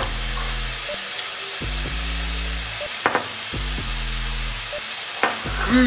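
Chicken sizzling in a frying pan, a steady hiss, over a low background music beat. A few short voice-like sounds come in about three seconds in and near the end.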